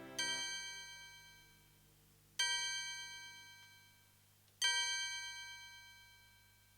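Three bell-like chime strikes about two seconds apart, each ringing out and fading, closing a song.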